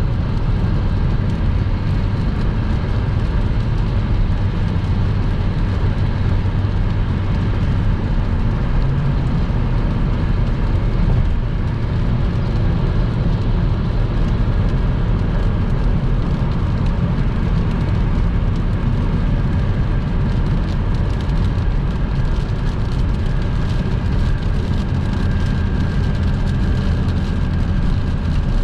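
Car driving at motorway speed on a rain-soaked road: a steady, even rumble of tyres and engine.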